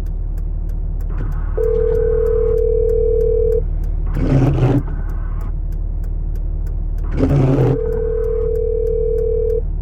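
Telephone ringback tone, ringing twice for about two seconds each with a pause of about four seconds, over the steady idle of a pickup truck's engine. A short swishing sound comes three times, louder than the rings.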